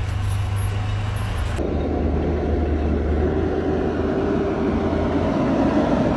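Heavy vehicle driving: a low steady engine drone, changing abruptly about one and a half seconds in to a denser, rougher rumble that continues.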